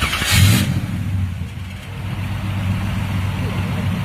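6.4 Powerstroke V8 turbo-diesel truck engine running with a steady low rumble, after a short, loud hiss at the very start.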